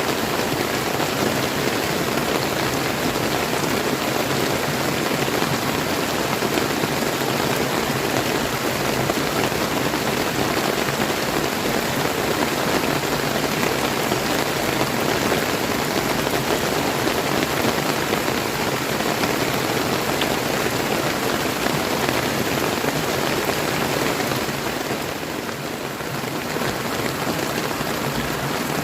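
Steady rain falling together with a flowing river, a dense continuous hiss and patter that eases slightly for a moment near the end.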